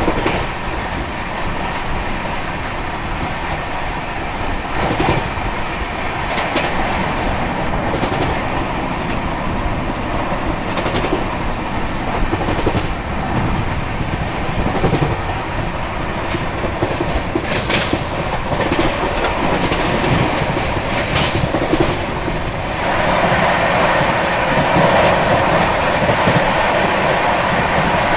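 22221 CR Rajdhani Express rolling along the rails, heard through an open coach doorway: a steady rumble of wheels on track with scattered clicks over rail joints. About 23 seconds in it grows louder as a passenger train's coaches run alongside on the next track.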